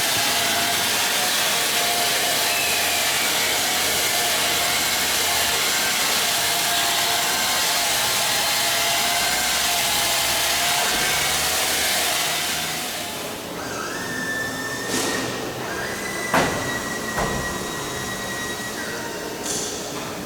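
Steady workshop machine noise: a loud, even hiss with a faint whine, which drops away after about twelve seconds, leaving a quieter, higher whine and a few sharp knocks.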